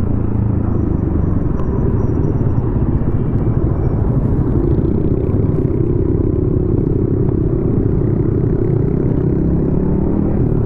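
Yamaha XSR155's single-cylinder engine running steadily through a DIY exhaust while riding, heard as a continuous low rumble.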